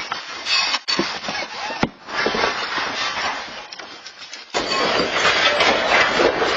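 Rattling and clattering of a building and its contents shaking in an earthquake, a dense loud noise broken by several abrupt cuts between clips.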